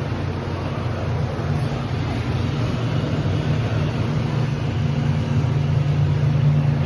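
Steady low machine hum over a wash of background noise, growing slightly louder near the end: the indoor ambience of an aquarium hall.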